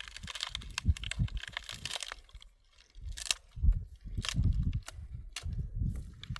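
Irregular crunching and crackling with scattered sharp clicks over low rumbling buffets, briefly dropping away about two and a half seconds in.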